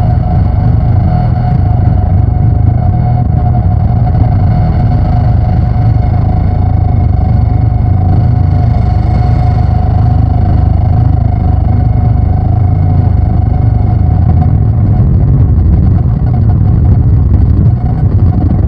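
Loud, distorted electronic drone from noise synthesizers: a dense, rough, rapidly fluttering low rumble with a steady held tone sitting above it.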